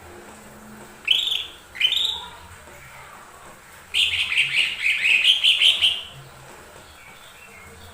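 Lesser green leafbird (cucak ijo mini) singing: two short calls about a second apart, then a rapid warbling phrase lasting about two seconds.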